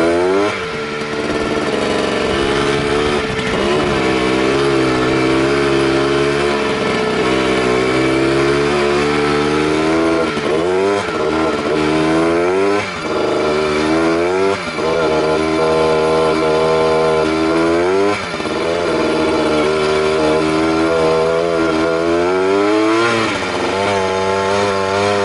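Motorcycle engines racing, revving up and falling off again every second or two over a steady engine drone.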